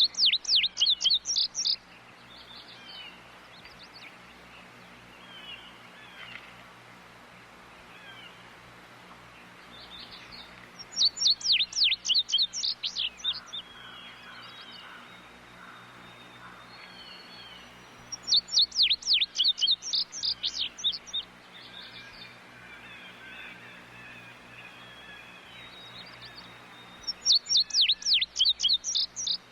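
Tudigo bird calling in four bouts, each a rapid run of about ten sharp, falling notes lasting about two seconds, repeated roughly every eight seconds. Fainter bird calls come between the bouts.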